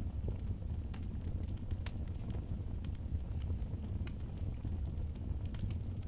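Wood fire burning in a fireplace, with sparse irregular crackles and pops over a steady low rumble.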